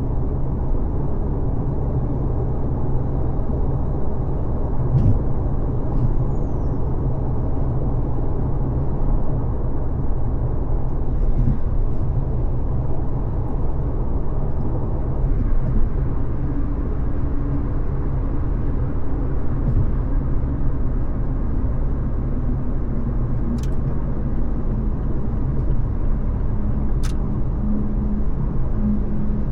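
Steady low rumble of a car cruising on a freeway: tyre and engine noise, with a few faint ticks and a faint low hum coming in past the middle.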